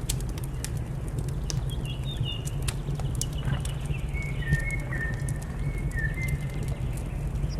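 Wood fire crackling with scattered sharp pops over a steady low rumble, while a bird whistles short stepped notes about two seconds in and again from about four to six and a half seconds.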